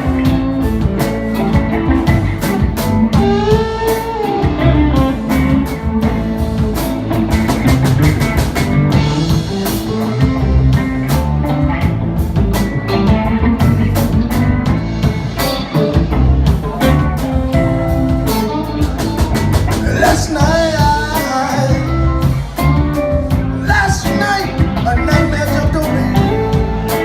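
Live blues band playing: guitar lines with bent, wavering notes over a drum kit, steady and loud throughout.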